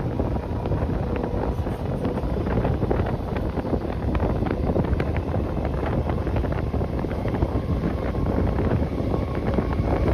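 Wind buffeting the microphone from the open doorway of a fast-moving passenger train, over the steady rumble of the train running on the track, with many irregular small clicks and rattles of the wheels and coach.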